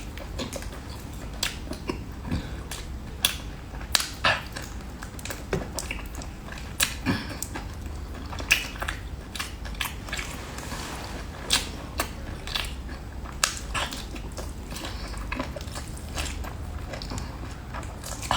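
A person eating cooked octopus with the mouth close to the microphone: irregular wet chewing, biting and lip smacks, sharp clicks every second or so. A steady low hum runs underneath.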